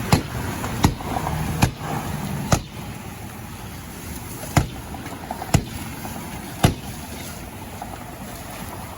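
Sharp pops and bangs, about seven in all at irregular gaps, over a steady rushing noise that drops away about two and a half seconds in, at a burning Chevy Tahoe SUV.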